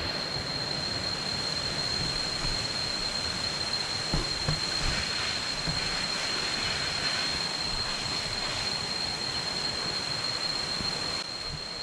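Steady rush of water from a jungle waterfall and stream, with a thin, steady high-pitched tone running over it. A couple of soft knocks come about four seconds in.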